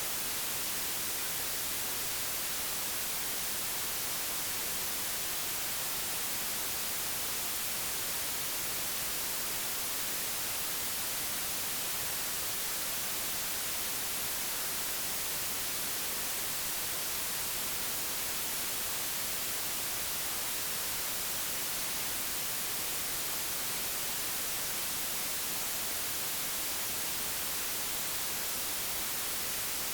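Steady, digitally generated white noise: an even, unchanging hiss across the whole frequency range.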